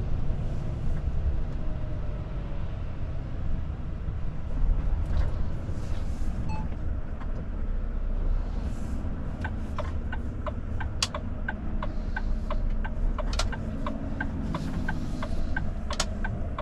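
Inside the cab of a Volvo FH truck on the move: a steady low rumble of engine and road. From about halfway through, a regular ticking sets in, about two ticks a second, typical of the turn indicator.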